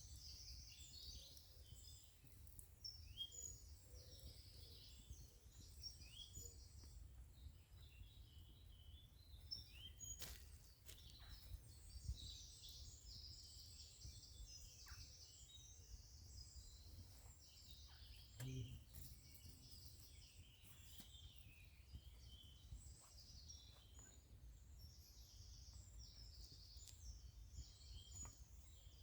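Quiet woodland with small birds chirping and singing faintly on and off, over a low steady rumble, with a few soft clicks.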